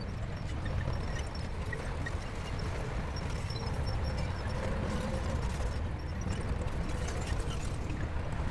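Shantui crawler bulldozer's diesel engine running steadily under load, with scattered light clicks and clanks from the machine working.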